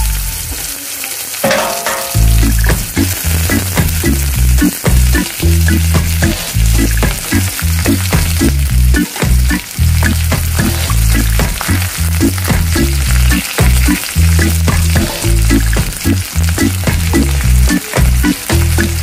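Sliced eggplant sizzling in hot oil in a frying pan, with frequent small knocks and clatter as more slices are laid into the pan.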